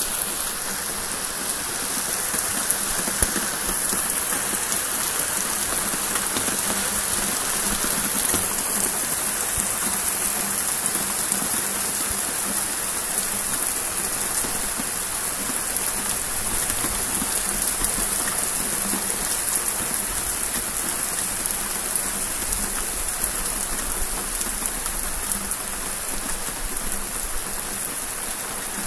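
Thunderstorm rain falling steadily: an even wash of drops with faint scattered ticks, no thunder rumble.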